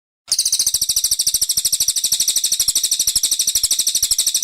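Brown cililin song used as a masteran recording: a loud, high, fast and even trill of rapid buzzy notes. It starts abruptly about a quarter second in.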